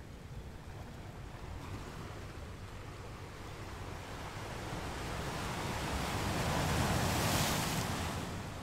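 Sea waves washing, a surge of surf building over several seconds to a peak near the end and then falling back.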